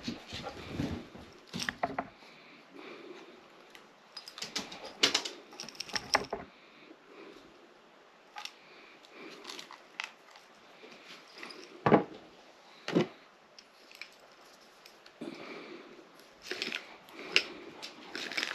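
Rattling and clinking as a jar of truck mulch, small shredded pieces of a truck, is opened and its contents are sifted by hand, with two sharp thumps about twelve and thirteen seconds in.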